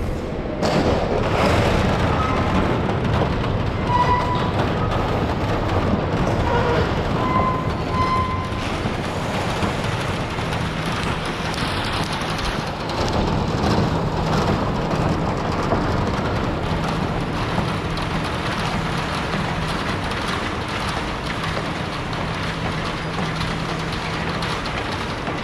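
Renault truck driving, with steady diesel engine and road noise, and a few brief high-pitched tones several seconds in.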